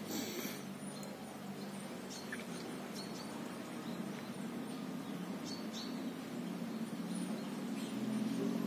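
Birds chirping here and there in short high calls over a steady low hum that grows louder near the end, with a brief rustle at the very start.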